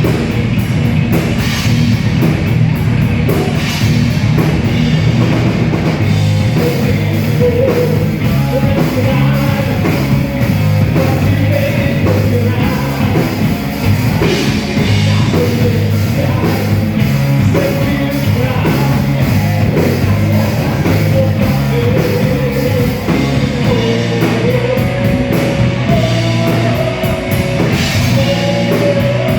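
Rock band playing live at full volume: drum kit, distorted guitars and bass, with a lead melody wavering over the band from about a quarter of the way in.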